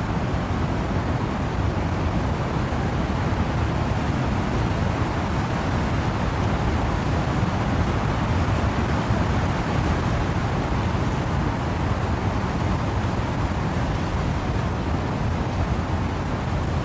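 Wind and rain in trees: a steady, unbroken rushing noise, heaviest in the low end.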